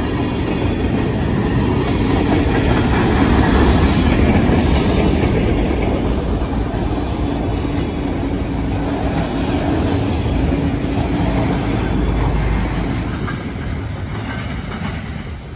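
Loaded freight cars of a manifest train rolling past close by, tank cars and then autorack cars, with the steady rumble and clatter of steel wheels on the rails. The noise eases off near the end as the last cars move away.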